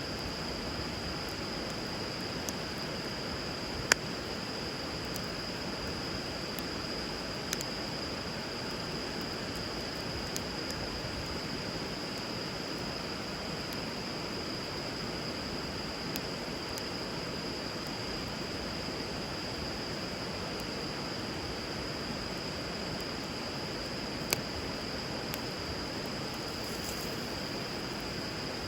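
Steady rush of flowing river water, with a few sharp pops from a wood fire burning on the water, the loudest about four seconds in. A thin, steady high-pitched tone runs underneath.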